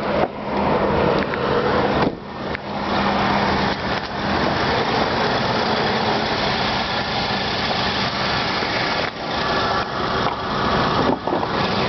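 2005 Ford Expedition's 5.4-litre three-valve Triton V8 idling steadily.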